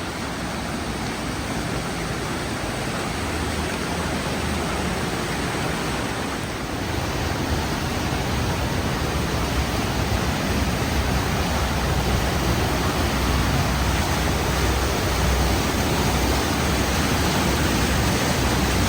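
Rushing creek water: a steady, noisy wash that grows slightly louder about seven seconds in.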